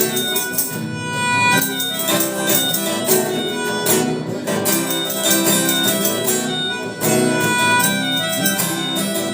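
Rock band playing an instrumental passage of a song with no singing: a held melody line over guitar accompaniment and a steady beat.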